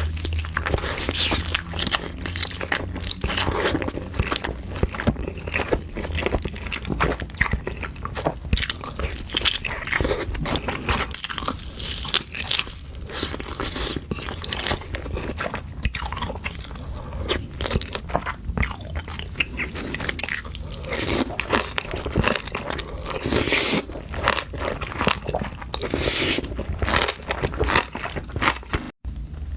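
Close-miked eating of seafood: many irregular crunching bites and chewing sounds, over a steady low hum, with a brief break near the end.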